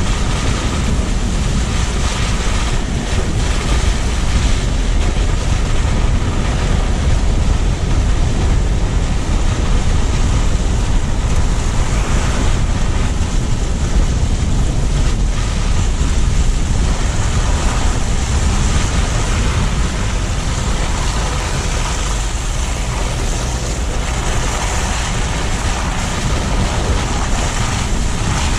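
Steady rumble and hiss of a car driving, heard from a low-mounted GoPro: tyre and road noise with wind buffeting the microphone.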